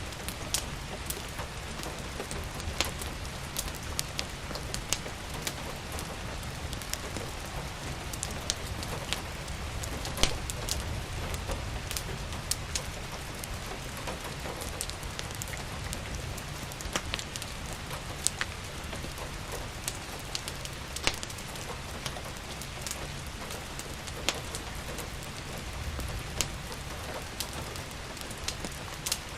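Steady rain falling, with a fireplace crackling: irregular sharp pops and snaps scattered through the steady hiss.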